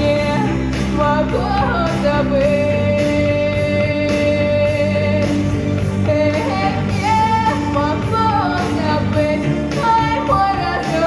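A female voice sings a Russian song over an instrumental backing track, holding one long steady note a couple of seconds in before the melody moves on.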